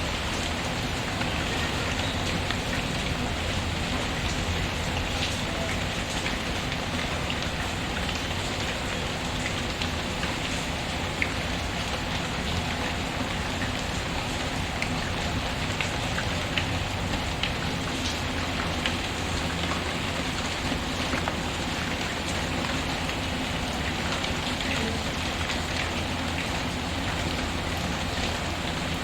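Steady rain patter mixed with the scattered crackles and occasional sharp pops of a wood fire burning in a fireplace.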